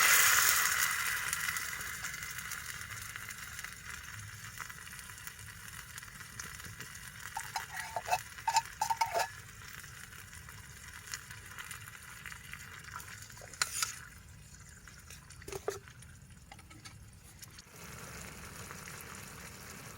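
A pan sizzling loudly at the start and dying down over a couple of seconds, then a quiet stretch with scattered light clicks and scrapes of a utensil stirring.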